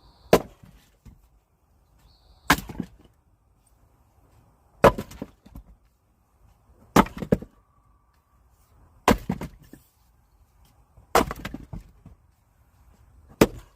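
Axe splitting firewood: seven sharp chops about two seconds apart, each followed by a few smaller knocks.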